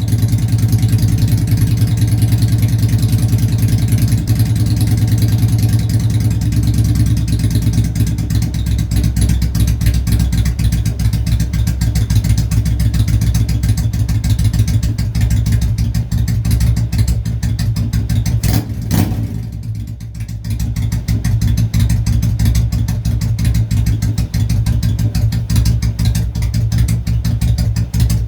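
Yamaha V-Star 1100's air-cooled V-twin running through a Cobra Pro HP 2-into-1 exhaust, mostly at a steady idle with a loud, deep rumble. A little past two-thirds of the way in, the sound briefly drops and then picks back up.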